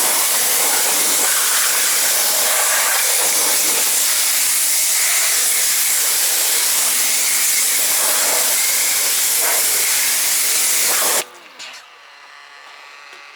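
Pressure washer spraying water in a loud, steady hiss over a faint motor hum, stopping suddenly about eleven seconds in.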